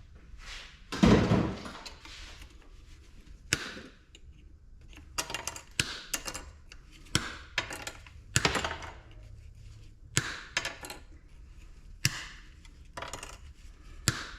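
Hand tools and metal and plastic parts clattering as a small ice maker is taken apart: a heavy thump about a second in, then scattered sharp clicks, knocks and clinks with handling noise in between.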